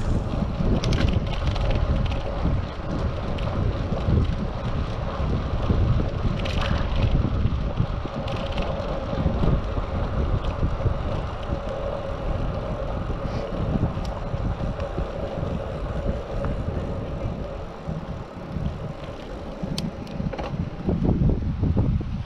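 Wind rushing over a GoPro Hero 7's microphone on a moving bicycle: a steady low rumble with a few faint ticks and rattles.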